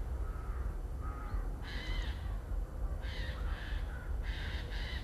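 A bird calling: a faint call about a second in, then a series of short, harsh calls in the second half, over a steady low rumble.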